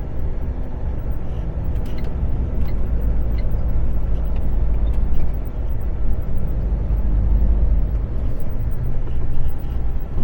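Lorry engine and road noise heard inside the moving truck's cab: a steady low drone, with a few faint ticks in the first few seconds.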